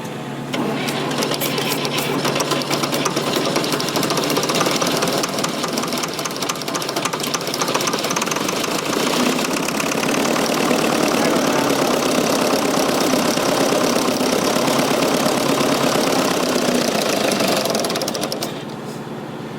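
Fordson Super Major's 3.6-litre diesel engine running rough and loud at wide-open throttle without revving up freely, freshly caught on starting ether after refusing to start; the sound drops sharply about a second before the end.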